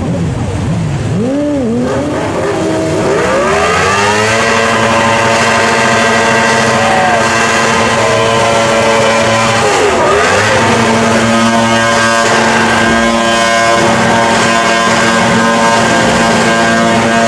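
High-revving sport motorcycle engine: a few quick throttle blips, then held at steady high revs for long stretches, dropping and climbing back once about ten seconds in, as when a superbike is held on the throttle for a burnout.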